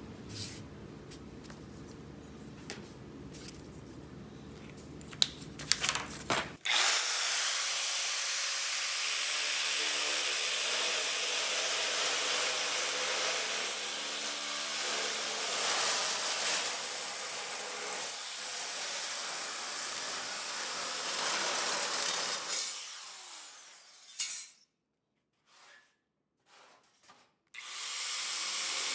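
A handheld power tool working the Beetle's sheet metal. It starts abruptly about six and a half seconds in and runs loud and steady for about sixteen seconds before winding down. After a short break it starts again near the end. Before it starts there is a low hum with a few clicks of handling.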